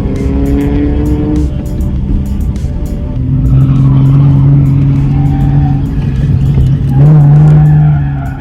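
Drift car engine held at high revs with tyres skidding and squealing, rising briefly early on and pulling hard again near the end. Background music with a steady beat plays over it.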